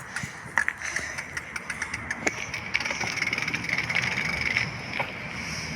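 Bicycle being ridden up a steep hill: scattered clicks and rattles over a steady high whine and hiss.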